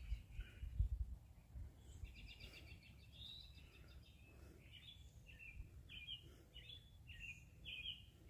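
A bird singing faintly: a quick trill about two seconds in, then a string of short slurred notes at about two a second, over a low background rumble.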